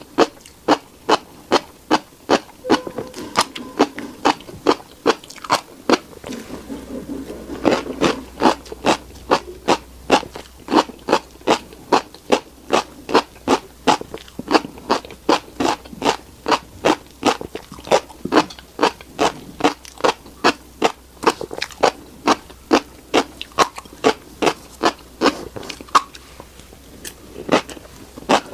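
Close-miked chewing of a mouthful of tiny black seeds, a sharp wet mouth click or crunch with each chew, about two to three a second, keeping up a steady rhythm.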